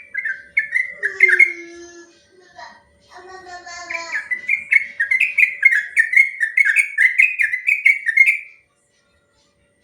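Yellow-vented bulbul (trucukan) singing. It opens with a few bubbly phrases and some lower warbled notes, then gives a long, rapid run of repeated chirping notes, about three a second, that stops abruptly about a second before the end.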